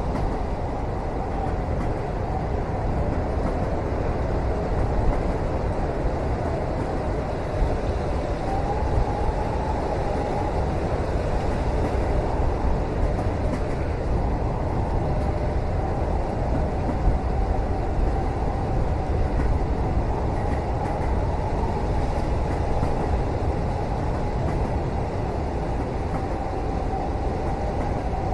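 Steady low rumble of a moving train heard from inside a passenger cabin, with a faint wavering whine and a few light knocks.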